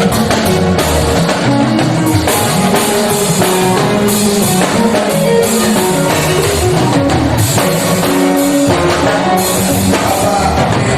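Live gospel band music from a church choir concert: drum kit with cymbals and electric guitar playing a steady, full accompaniment.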